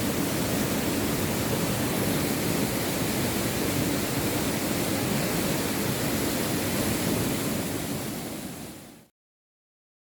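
Waterfall pouring: a steady, dense rush of falling water that fades out about eight seconds in and cuts to silence.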